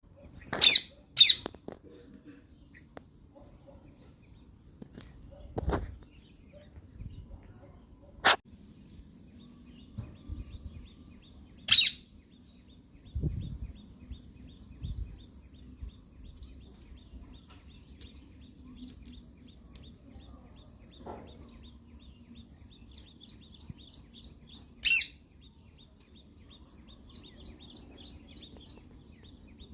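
A parrot giving loud, short, sharp calls, five in all, two close together at the start and the others spread out. A faster, softer trill of rapid high notes is heard near the end, along with a few dull low thumps.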